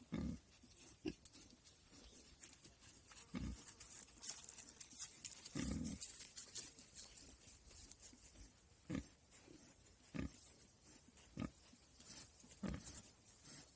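Wild boar grunting: about eight short, low grunts at irregular intervals, with a crackling rustle in the middle of the stretch.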